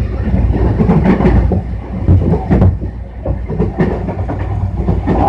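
Tobu 60000 series electric train running, heard from inside the passenger car: a steady low rumble with irregular clacks and knocks from the wheels over rail joints.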